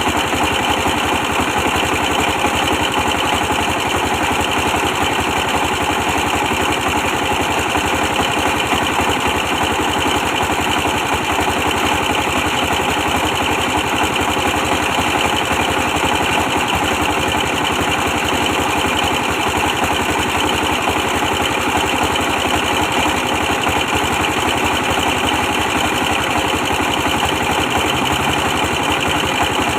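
24 hp diesel engine running steadily, powering a brick press.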